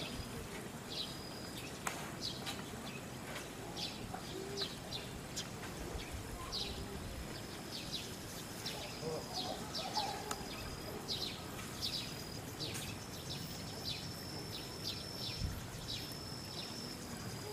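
Small birds chirping: many short, high chirps at irregular intervals, over a thin high steady tone that breaks off and resumes, with faint distant voices underneath.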